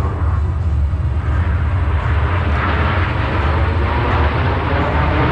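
Jet noise from Aermacchi MB-339 jet trainers in an aerobatic display, a dense steady rush that grows brighter and louder from about two seconds in.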